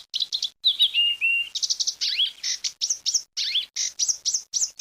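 African reed warbler singing: a rapid, chattering run of short high notes, each note repeated several times before the next, with rising slurred notes mixed in.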